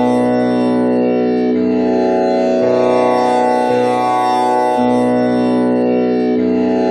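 Tanpura drone tuned to B, with one string set to komal Ni. Its strings are plucked one after another in a slow repeating cycle, a new pluck about every second or so, each note ringing on into a continuous steady drone.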